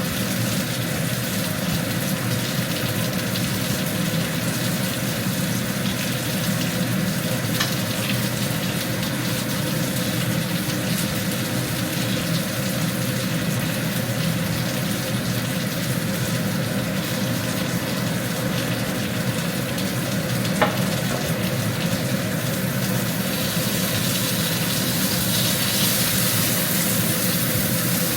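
Beef short ribs frying, a steady sizzle over a low hum, with one sharp click about twenty seconds in and the sizzle growing brighter near the end.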